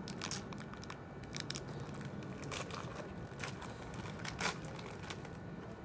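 Irregular crinkling and crackling of a biscuit packet being handled and opened.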